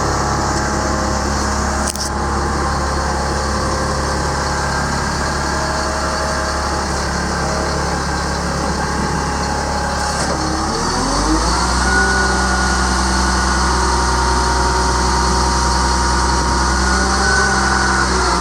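Caterpillar C7 inline-six turbo diesel running steadily; about eleven seconds in its speed rises and then holds at a higher, steady pitch.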